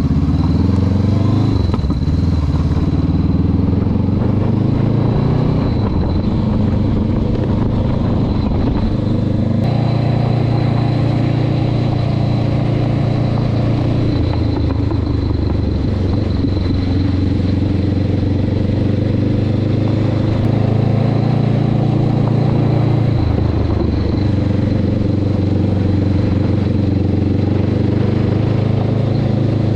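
Exhaust of a Honda CB500X's parallel-twin engine as the motorcycle is ridden. The engine note runs steadily and steps up and down in pitch several times as revs change.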